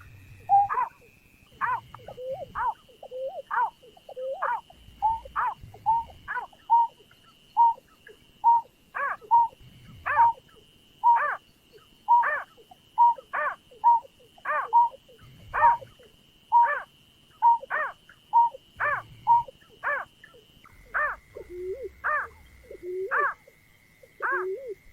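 A bird calling in a long, even series of short hooting notes, one to two a second, some sliding down in pitch. A faint steady high tone runs beneath and drops slightly in pitch near the end.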